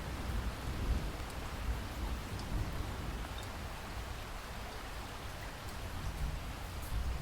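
Steady rain falling, with a low rumble of distant thunder under it that fades over the first couple of seconds and swells again near the end.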